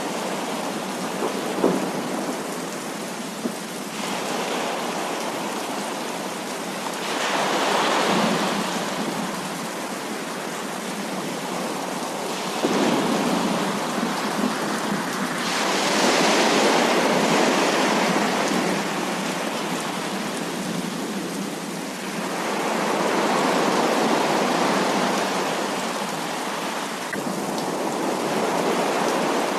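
Heavy rain pouring steadily, with thunder rolling in and out as several slow swells lasting a few seconds each. A couple of sharp ticks come in the first few seconds.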